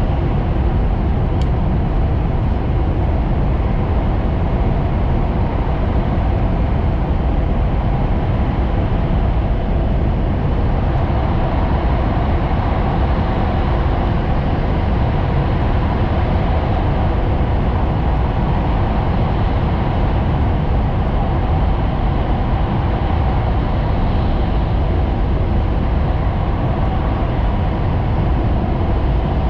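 Hayabusa Shinkansen train running at speed, heard from inside the passenger cabin: a steady, loud low rumble of wheels and running noise with a faint steady hum on top.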